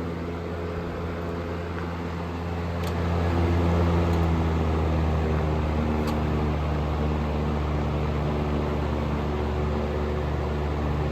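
General Electric W25 five-wing vintage box fan running at full speed: a steady motor hum under the rush of air from its blades, a little louder from about three seconds in.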